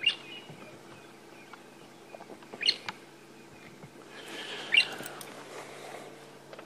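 A bird calling in three short, sharp chirps a couple of seconds apart, the last the loudest.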